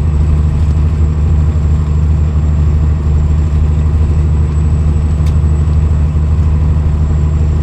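Cat C-15 diesel of a Peterbilt 379 semi truck running steadily at highway cruise, heard from inside the cab as a loud, even low drone.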